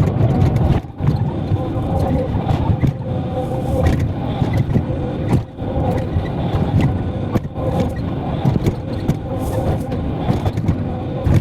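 Excavator's diesel engine running steadily under load, a continuous low drone.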